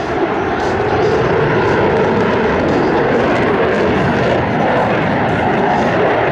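Fixed-wing aircraft in flight, its engine noise loud and steady.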